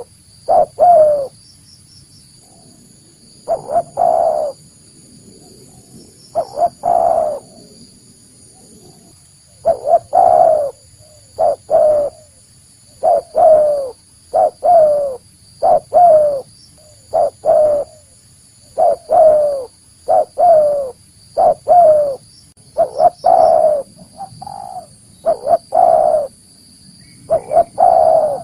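Spotted dove (tekukur) cooing: short phrases of two or three notes, each with a slight downward bend, repeated every couple of seconds.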